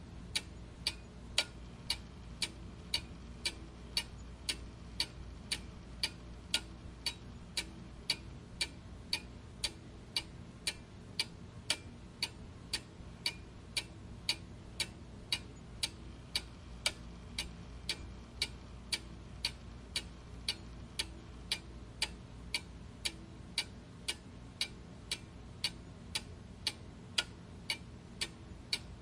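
Clock ticking steadily in an even tick-tock, about two ticks a second, over a faint low hum.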